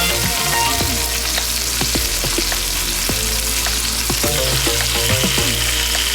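Turkey ham frying in margarine in a pan: a steady sizzle with frequent small pops and crackles.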